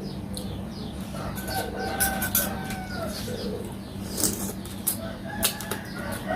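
Chickens clucking with a rooster crowing, one drawn-out call about a second and a half in and another near the end. A few sharp clicks stand out over a steady low hum.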